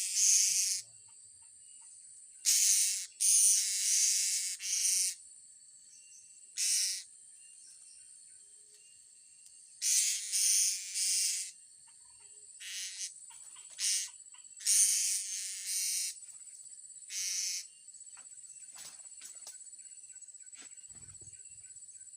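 Insects buzzing in a series of loud, high-pitched bursts, each about half a second to a second long, over a steady high insect drone.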